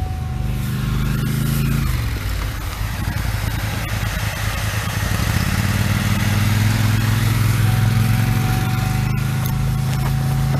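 A 2006 Chevy Trailblazer's 4.2-litre Vortec straight-six idles steadily just after a cold start. Its hum drops away for a few seconds, about two seconds in, then comes back steady and stronger.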